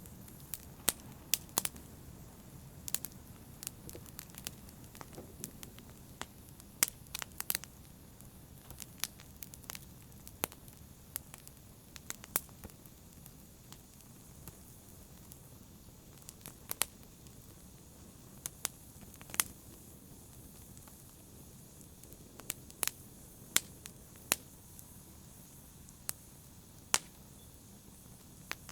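Wood fire in a fireplace crackling: irregular sharp pops and snaps, sometimes several in quick succession, over a soft steady low rumble of the burning.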